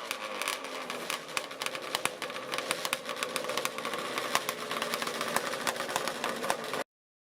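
Two-stroke motorcycle engine idling, with many sharp crackling pops through it. The sound cuts off suddenly near the end.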